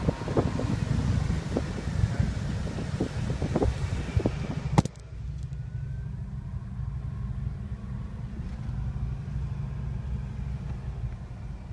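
Car driving at speed: road and wind noise with scattered knocks at first. A sharp click about five seconds in is followed by a sudden drop in the hiss, leaving a steady low rumble of tyres and engine.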